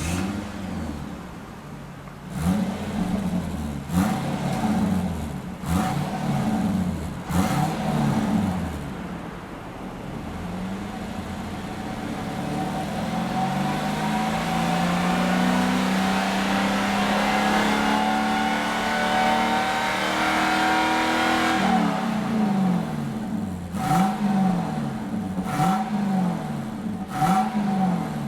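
30-series Toyota Celsior's V8 through a straight-piped front and centre section with the stock rear muffler, being blipped in short revs. It then holds one long rev that climbs steadily for several seconds before dropping back, followed by a few more quick blips.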